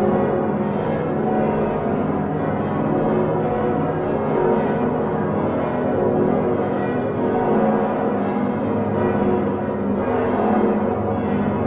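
The Utrecht Dom tower's large bronze swinging bells, with the 1505 Geert van Wou bells among them, ringing together on straight yokes. Their strokes overlap into a dense, continuous clangour that stays at an even level.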